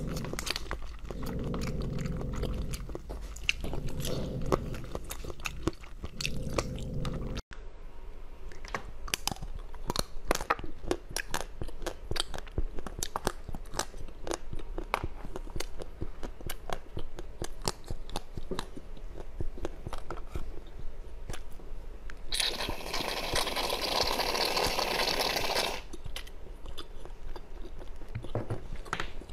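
Close-miked eating sounds: candy being bitten and chewed, with many sharp crisp crunches. Near the end comes a few seconds of steady rustling noise.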